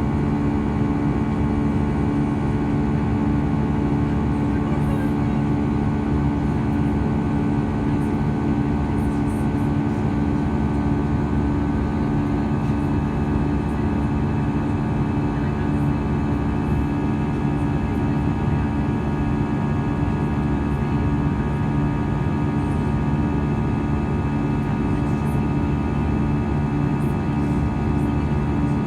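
Steady cabin noise inside an Airbus A320 airliner: an even jet-engine and airflow rush with several steady humming tones, unchanging throughout.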